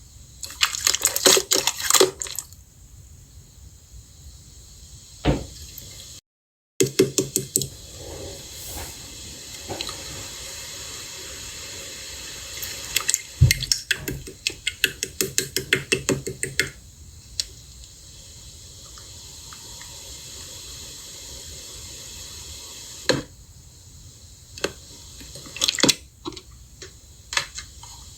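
Slime being squished and pressed by hand, giving bursts of rapid wet clicks and pops with quieter stretches between.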